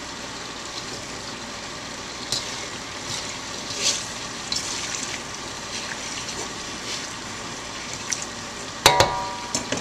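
Jumbo shrimp and scallops frying in oil in a wok: a steady sizzle with scattered pops and crackles. Near the end comes a single sharp metallic clank that rings briefly.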